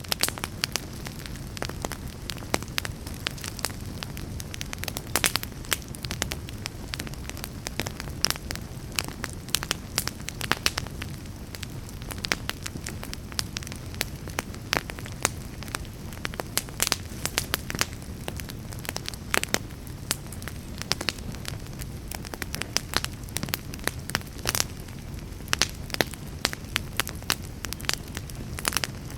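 Fireplace fire crackling, with frequent sharp, irregular pops over a low steady rumble of flames.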